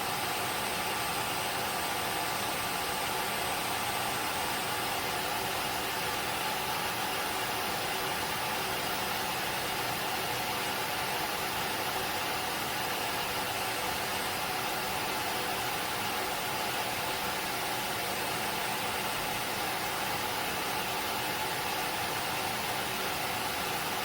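Tineco Floor ONE S7 PRO wet-dry floor cleaner in the air-drying stage of its self-cleaning cycle: its motor blows air steadily to dry the brush roller, a constant whir with a faint even whine.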